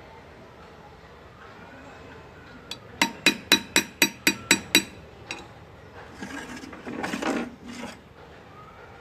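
Hand engraving on metal: about eight quick, ringing taps of a hammer on a graver, four or five a second, then a couple of seconds of scraping.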